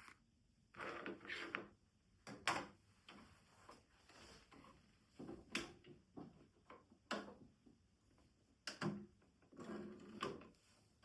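Fabric and sewing tools being handled: scattered soft rustles and a series of short, sharp clicks and knocks at uneven intervals.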